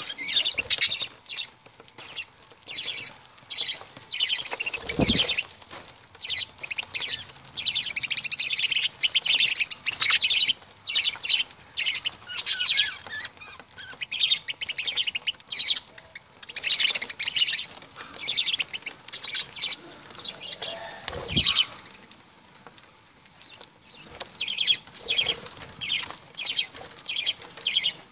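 Pet lovebirds chattering: rapid, high-pitched chirps and squeaks coming in bursts. Two brief lower sounds stand out, one early on and one about three quarters of the way through.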